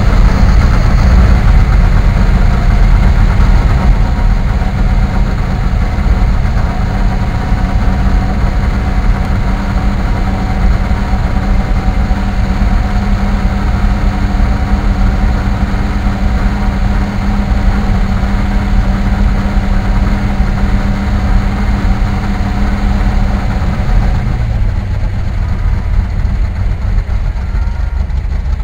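Car engine running steadily and loudly, its note dropping slightly about 24 seconds in as the revs ease off.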